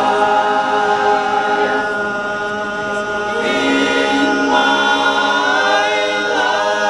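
An a cappella vocal group singing held chords in several parts, moving to a new chord about three and a half seconds in.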